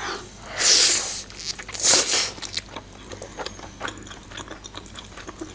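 Close-miked eating of a large steamed momo: two loud hissing mouth sounds about half a second and two seconds in, then a run of soft wet chewing clicks.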